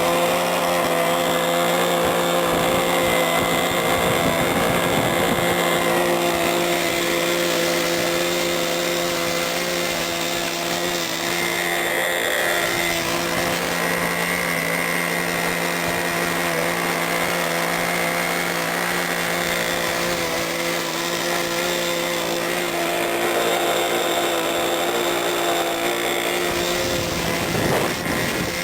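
Model-airplane nitro glow engine running steadily at high speed with an even, unchanging pitch, typical of a new engine's break-in run.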